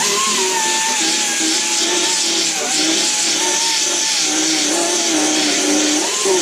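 Angle grinder starting up abruptly and grinding the door's steel back to clean, bare metal ready for welding. Its pitch wavers and dips as the disc is pressed into the work, then rises again near the end.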